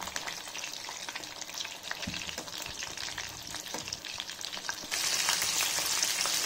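Chicken drumsticks deep-frying in hot oil in a metal pan: a steady sizzle full of small crackles, with a few knocks from tongs turning the pieces. About five seconds in the sizzle gets suddenly louder and brighter.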